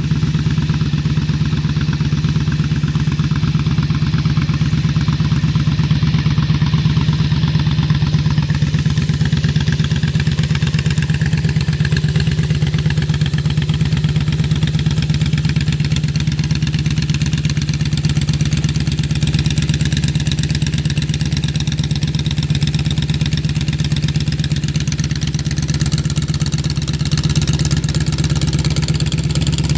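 Honda Super Magna 750's V4 engine idling steadily through its exhaust, a constant low note with no revving.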